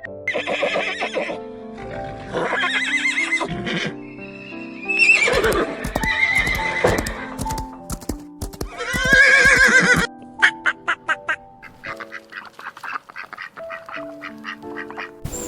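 Horse whinnying in four wavering calls over a stepping background melody, followed by a run of sharp ticks.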